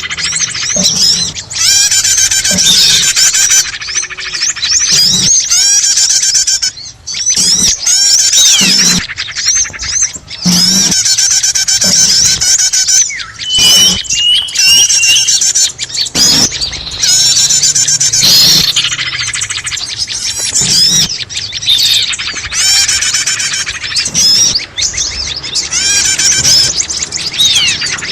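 Dense, unbroken mix of many small songbirds chirping, trilling and squawking over one another: a combined bird-lure call recording played to draw in small birds.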